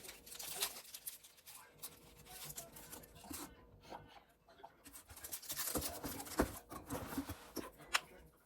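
Light handling noises: scattered clicks and taps with rustling, busiest in the middle to later part.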